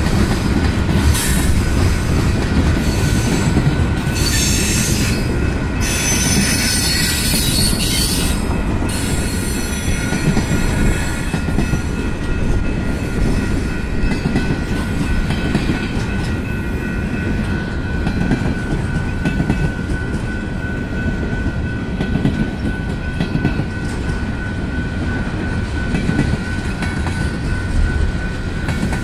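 Manifest freight train's cars rolling past: a steady rumble of wheels on rail, with a steady high-pitched wheel squeal and bursts of higher screeching in the first several seconds.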